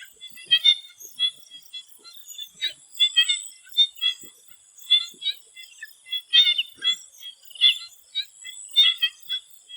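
A chorus of swamp frogs calling, many short overlapping croaks coming at an uneven pace, over a steady high-pitched drone.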